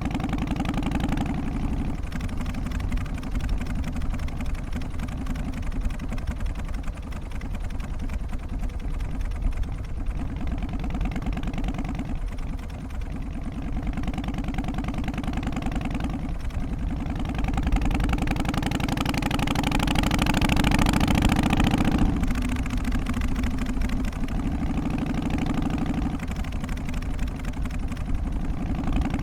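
Harley-Davidson Softail's Twin Cam 88 V-twin engine running with a steady pulsing beat. It grows louder and brighter from about halfway through, then drops back sharply about three-quarters of the way in.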